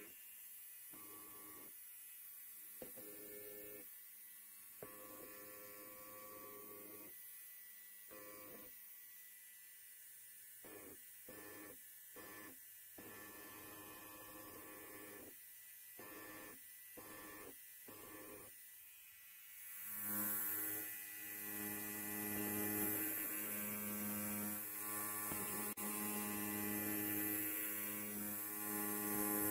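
Electric hair clipper buzzing with a steady low pitch. For the first two-thirds it cuts in and out in short stretches, then it runs continuously and louder.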